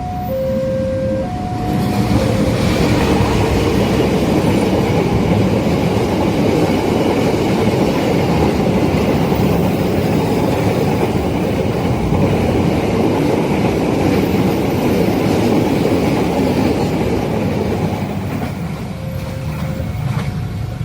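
A long, fast train passing a level crossing: a loud, steady rush of wheels on the rails from about two seconds in, easing off near the end. The crossing's warning alarm, alternating between two electronic tones, sounds at the start and is heard again as the train clears.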